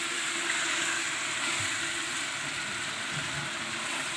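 Chicken curry sizzling steadily in a large aluminium pot over the fire.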